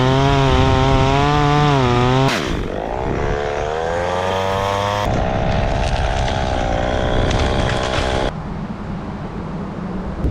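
Chainsaw cutting pine at high revs, its pitch dropping sharply a little over two seconds in and climbing back, then running steadily until it stops about eight seconds in, leaving wind noise on the microphone.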